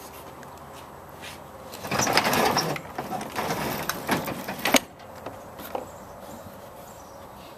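A garage door being pulled shut: about three seconds of rolling, clattering noise that ends in a sharp clunk.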